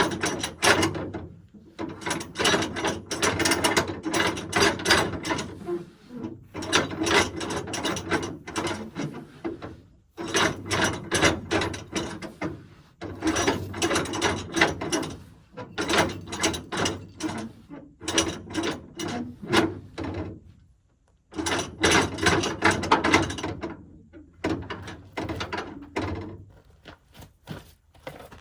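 Ratchet on a flatbed truck's cargo strap clicking in repeated runs of a second or two with short pauses between, as the strap securing the load is worked loose for unloading.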